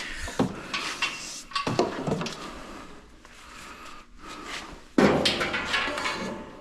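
Knocks and clatter of hard objects being handled and moved about, with a louder clattering scrape about five seconds in that dies away over a second or so.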